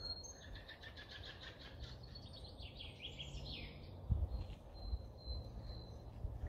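Faint birdsong: quick runs of high chirps and trills for the first few seconds, then short repeated high notes. A few soft thumps are heard over a low rumble near the end.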